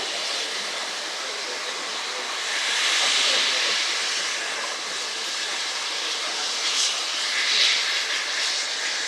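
Steam locomotive working past with its train, a steady hiss of steam and running noise that swells about three seconds in and again near the end.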